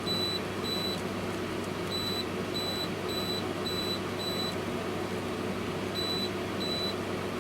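Short, high electronic beeps repeating about twice a second in runs, with pauses between the runs, over the steady hum of a window air conditioner's fan running before its compressor starts.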